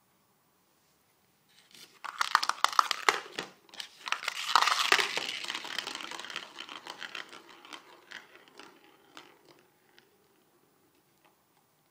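A crinkly cat toy rustling and crackling as a cat plays with it. It comes in quick bouts from about two seconds in, is loudest through the middle, and trails off near the end.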